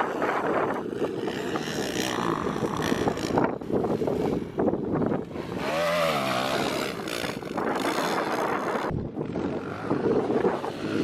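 Dirt bike engines running and revving, the pitch dipping and rising again about halfway through, with gusty wind rumbling on the microphone.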